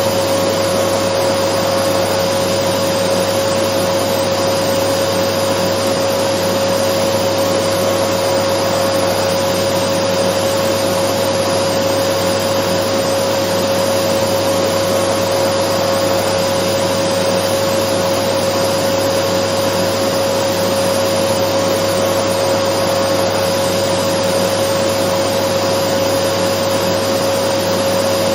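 Dyson vacuum cleaner running steadily: a continuous rush of air with a steady motor whine, unchanging throughout.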